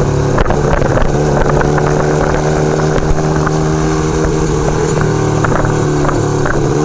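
1975 Kawasaki KZ400's parallel-twin engine running steadily under way at an even pitch, with wind noise across the microphone.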